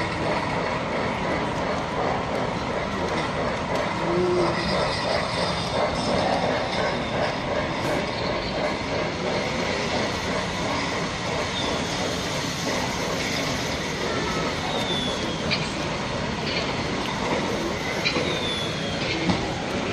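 Model trains running on layout track, with a steady busy hum of noise and a few short, high, falling squeals in the second half.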